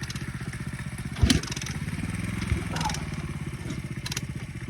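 Small engine idling steadily, rising briefly in pitch as it is revved about two seconds in, with a couple of sharp clacks over it.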